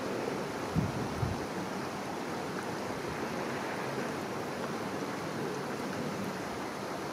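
River water flowing with a steady rushing sound, with two short low thumps about a second in.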